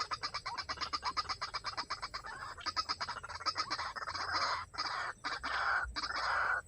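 White-breasted waterhen calling: a fast run of harsh, repeated notes that turns rougher and more continuous in the second half, broken by a few short gaps.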